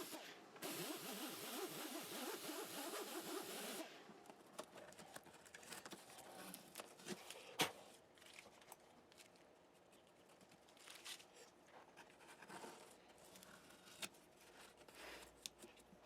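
Rough scraping for about four seconds that stops abruptly, followed by faint clicks and taps of handling, with one sharp click about halfway through.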